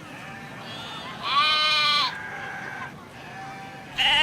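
An animal bleating: a long wavering bleat about a second in, a faint one after it, and another loud bleat starting near the end.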